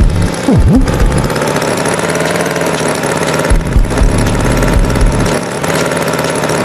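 Tractor engine running steadily, a cartoon sound effect, with a brief rising sound about half a second in.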